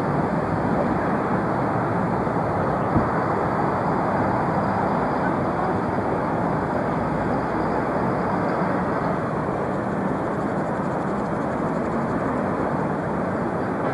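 Jet airliner engines running with a steady, even noise, a faint high whine above it fading out about two-thirds of the way through. A single sharp click about three seconds in.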